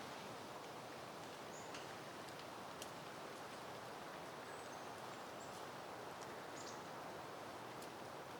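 Soft, steady wind rustling through foliage, with a few short, high bird chirps and small clicks scattered through it.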